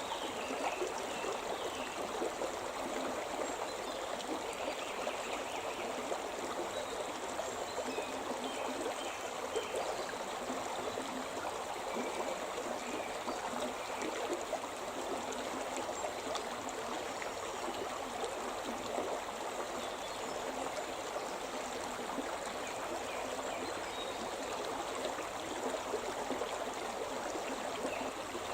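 The Shimna River flowing, a steady rushing of water.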